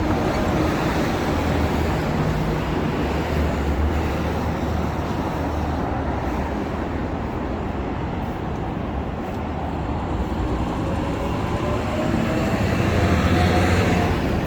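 Steady, loud noise of passing motor vehicles, with a low engine hum and a faint rising whine in the second half.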